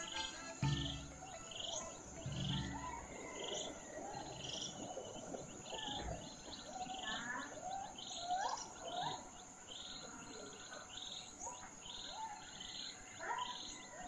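Birds chirping: a short high call repeated about every two-thirds of a second, with lower, rising and falling chirps in between, over a steady high-pitched tone. Two dull low thumps come in the first three seconds.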